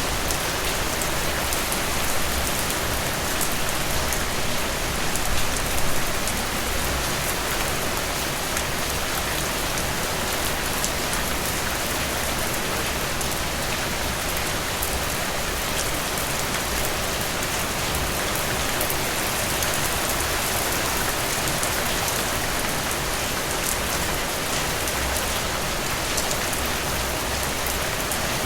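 Heavy rain falling steadily on a surface, a dense even hiss with fine individual drop ticks in it.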